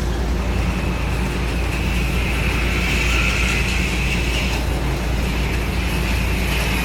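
HO-scale AFX slot car motors whining at speed around the track. A high whine rises about half a second in, fades near five seconds and returns at the end, over a steady low hum.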